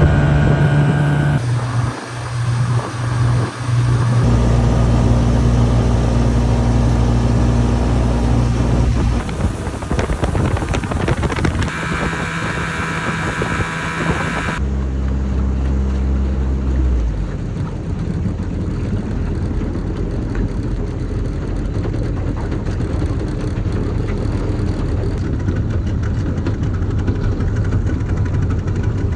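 Boat motor running steadily with a low hum, changing abruptly a few times as the sound jumps between separate clips.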